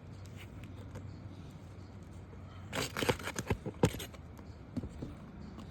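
Asphalt roof shingles being pried and worked loose: a quick run of scraping, crackling clicks for about a second, starting about three seconds in, then a couple of fainter ticks.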